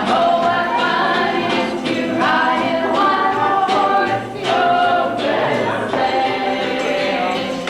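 A group of voices singing a song together, choir-style.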